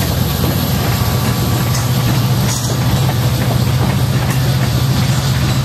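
Loaded covered hopper cars of a freight train rolling past, a steady low rumble of steel wheels on the rails with faint clicking over the rail joints.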